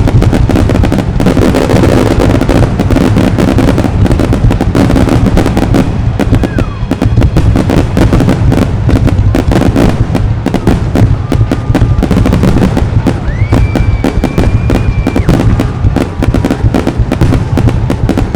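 Fireworks going off in a dense, continuous barrage of booms and crackles with no let-up. A high whistle sweeps up and holds for about two seconds in the second half.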